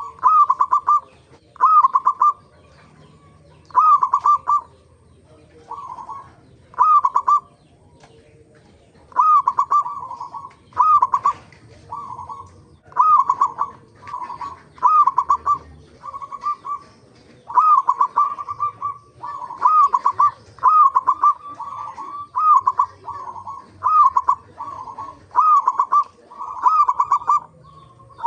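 Zebra doves (perkutut) calling: short bubbling, cooing phrases repeated about every second to a second and a half.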